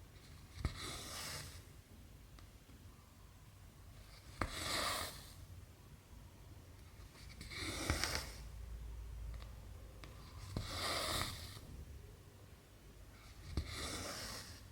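Hand cross-stitching in cotton thread: five times, about three seconds apart, the needle pokes through the fabric with a click and the thread is drawn through after it with a swish lasting under a second.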